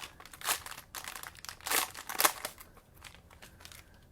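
Cellophane wrappers on Mosaic trading card cello packs crinkling as they are handled, a series of rustles over the first two seconds or so.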